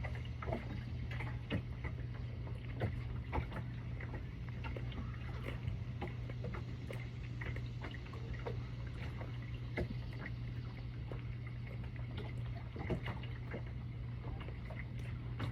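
Ambient sound aboard a boat on the water: a steady low hum with faint, irregular small ticks and water sounds.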